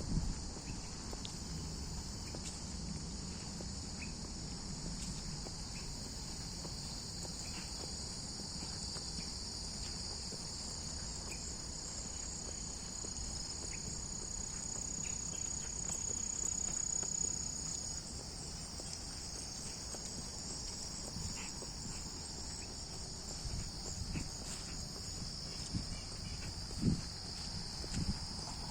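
A steady, high-pitched insect chorus, crickets or similar insects calling continuously. A couple of soft footstep thumps on the trail come near the end.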